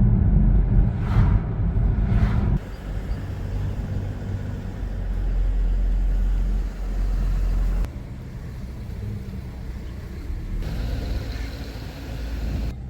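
Low rumble of a car driving on the road, engine and tyre noise, with two short swells in the first few seconds. The rumble changes abruptly several times.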